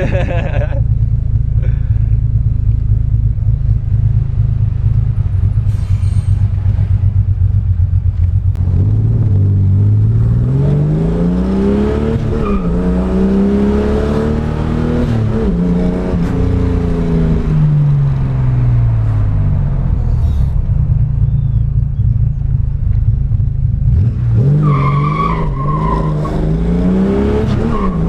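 Naturally aspirated Chevrolet Caravan inline-six idling with a deep, strong exhaust note, then revved several times from about 8 seconds in, the pitch climbing and falling with each blip. It settles back to idle around 20 seconds and is revved again near the end.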